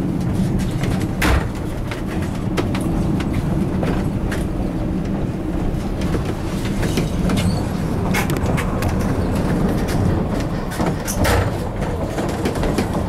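Narrow-gauge passenger train running along the track, heard from aboard a coach: a steady low rumble of wheels on rail with scattered clacks and knocks.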